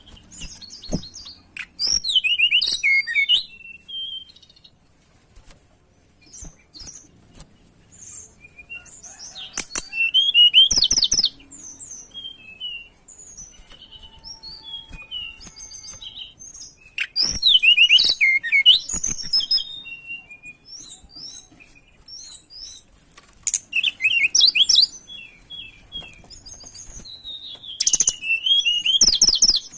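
A tledekan gunung, a small songbird, singing in loud bursts of rapid, high twittering, about every six or seven seconds, with softer scattered chirps in between. It is a lure recording meant to set caged birds singing.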